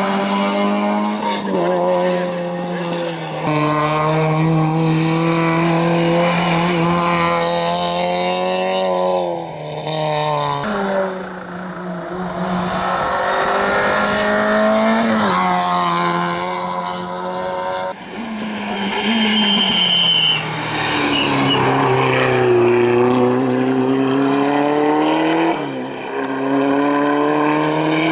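Rally cars' engines at full throttle, revving up and dropping back through gear changes, with tyre squeal. The sound changes abruptly twice, about a third and two thirds of the way through.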